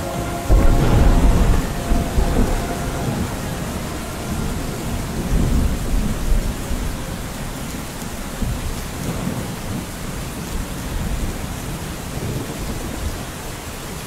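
Steady rain with a deep rolling thunder rumble that breaks out about half a second in and a second, weaker swell of rumble around five seconds.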